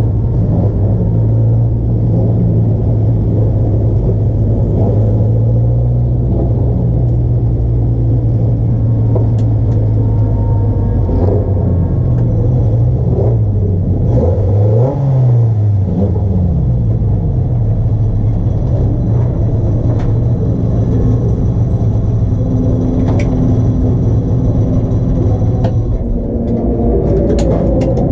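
Racing car engines running hard and steadily on a circuit, with the engine pitch rising and falling several times around the middle.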